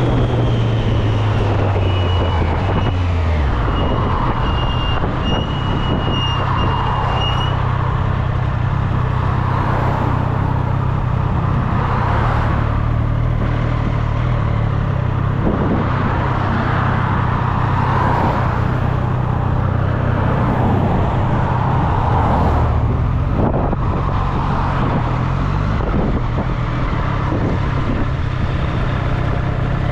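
Triumph Street Triple's inline three-cylinder engine running steadily on the move, its pitch dropping about three seconds in and climbing again a little after twenty seconds.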